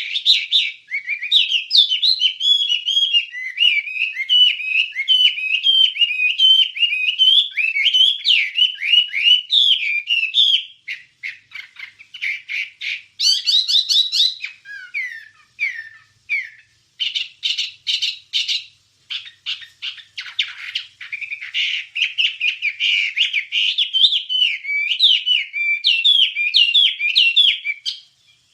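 Wambie songbird singing a fast, continuous run of chirps and quick pitch-gliding notes, with a couple of brief breaks and a burst of rapid repeated notes in the middle, stopping just before the end. This is masteran tutor song, the recording keepers play to teach their birds.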